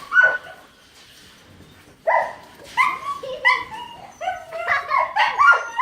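A dog barking in short, high yips: two at the start, then a run of them from about two seconds in that comes faster toward the end.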